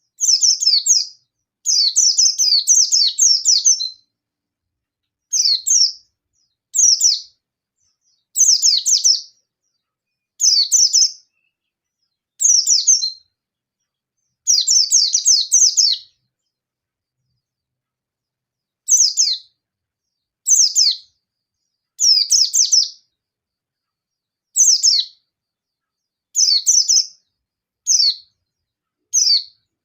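Yellow-breasted white-eye (pleci dakun) singing its rapid 'nembak' challenge song, a high fast twitter in bursts of half a second to two seconds, repeated every second or two with a longer pause about halfway. It is a song that calls rival white-eyes to answer.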